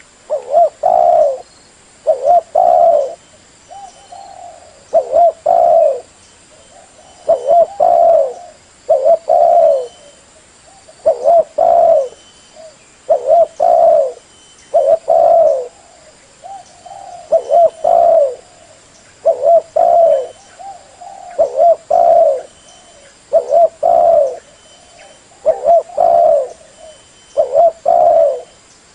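Female spotted dove cooing: short low coo notes in quick pairs, repeated about every two seconds.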